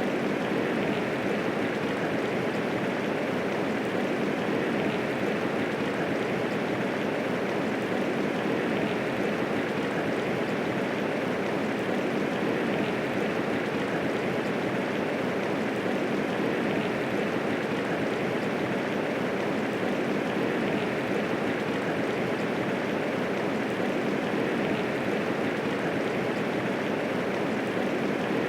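Steady medium rainfall: an even, unbroken hiss of rain falling, with no thunder.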